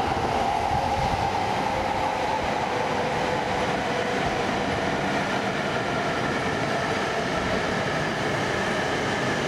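Coupled E3 series 1000 and E2 series 1000 Shinkansen train pulling out of the station: steady running noise with a motor whine that rises slowly in pitch as it gathers speed.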